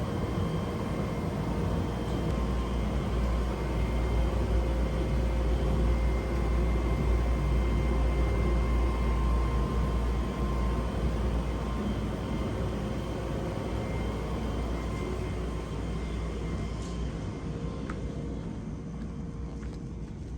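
A vehicle running steadily: a low rumble with a faint steady whine, easing off a little near the end.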